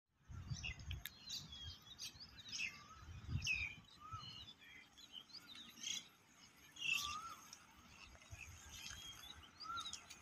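Faint chirping and calling of several small birds: short rising and falling notes. A few low rumbles come and go beneath them.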